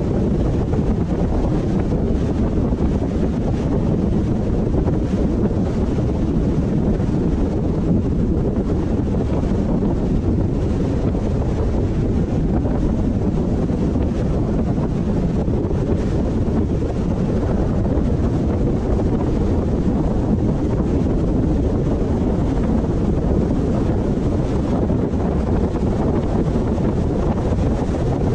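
Steady rumble of road and wind noise from a moving car, with wind buffeting the microphone and no distinct engine note or events.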